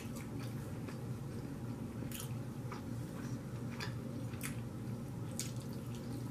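Close-miked chewing and wet mouth sounds of a person eating, with a handful of sharp wet clicks and smacks over a steady low hum.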